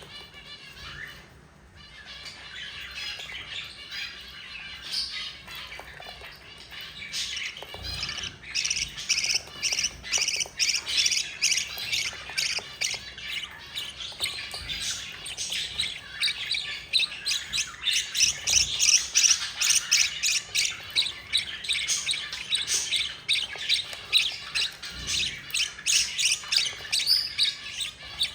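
Budgerigar chicks' rapid, insistent begging squawks as they are fed, fainter at first and growing denser and louder about a quarter of the way in.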